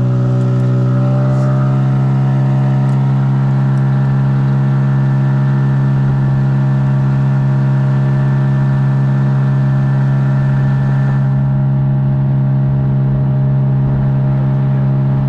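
Boat motor running at a steady speed, a loud, even drone that holds its pitch after a slight rise in the first second.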